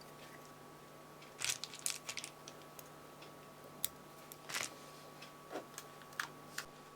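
Fly-tying thread being started and wrapped on a hook at the vise: faint small clicks and a few brief scratchy rustles, over a steady low hum.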